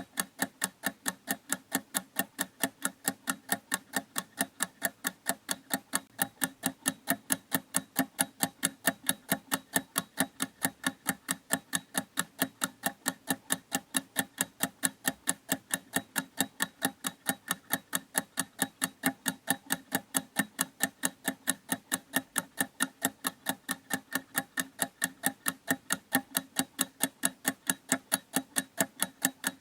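A clock ticking in a fast, perfectly even rhythm, several sharp ticks a second.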